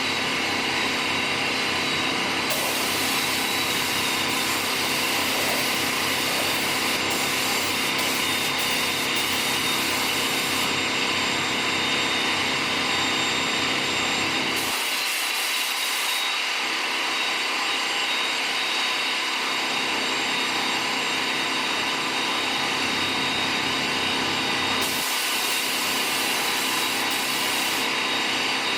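Steady hum of shop machinery with a hissing air sound that starts and stops several times.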